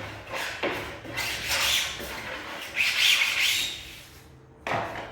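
Sandpaper rubbed by hand along the cut edge of an MDF panel to take off the saw burr: several uneven scraping strokes, the loudest about three seconds in.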